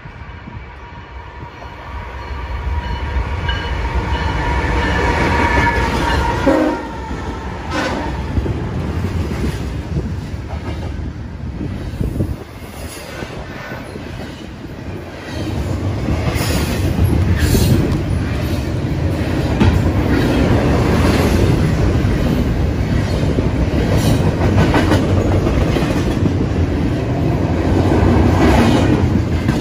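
BNSF diesel freight locomotives sound a multi-note horn chord as they approach, the horn stopping about seven seconds in. The locomotives then pass, and a double-stack container train rolls by with a steady heavy rumble and wheel clatter over the rails.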